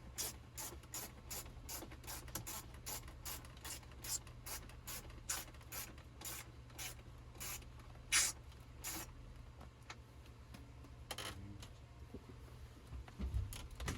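An irregular run of light clicks and rustles, about two to four a second, over a steady low hum.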